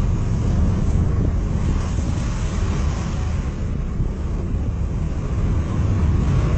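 Strong wind buffeting the microphone: a steady low rumble with a rushing hiss above it.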